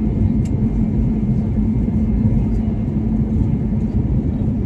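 Airbus A321neo cabin noise: a steady, loud, low rumble of the engines and airflow, with a constant hum running through it.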